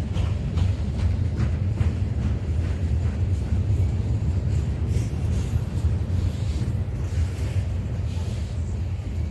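Freight train cars rolling slowly past, a steady low rumble with faint irregular clicks from the wheels and couplings.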